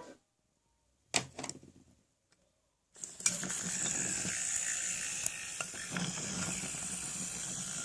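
Wooden toy trains on wooden track: a couple of sharp clacks about a second in, then from about three seconds in a steady rolling rattle with scattered clicks, as an engine is run along the track.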